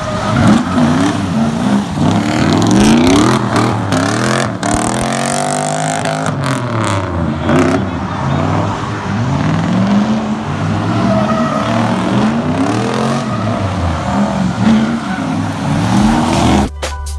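Drift cars' engines revving up and down over and over, several at once, over a steady hiss of tyres on a wet surface. Music with a steady beat cuts in suddenly right at the end.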